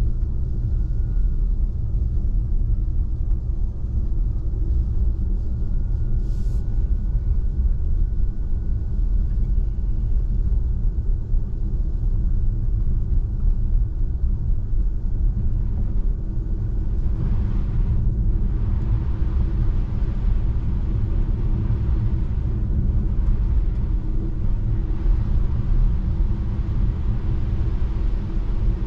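Tesla Model 3 driving on a snow-covered road: steady low tyre and road rumble, with no engine note. A higher hiss joins about 17 seconds in, and there is one brief click near 6 seconds.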